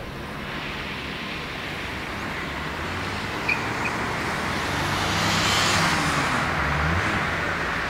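Boeing 777-300ER's GE90-115B jet engines at takeoff thrust: a broad roar that builds to its loudest about five to six seconds in and falls slightly in pitch as the aircraft passes. Two short chirps sound about three and a half seconds in.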